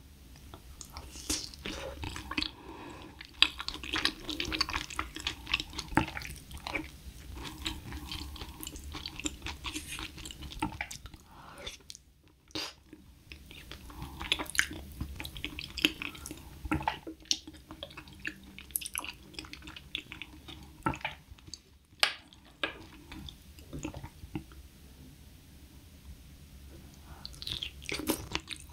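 Close-up chewing of soft rice porridge wrapped in gamtae seaweed: wet, sticky mouth sounds with many small irregular clicks and smacks.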